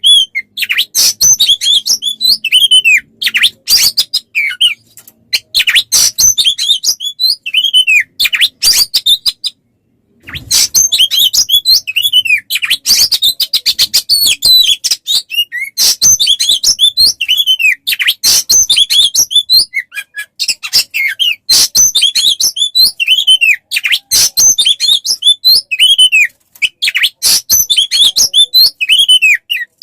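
A songbird singing a rapid, dense run of sharp chirps and short down-slurred whistles, with a brief pause about ten seconds in.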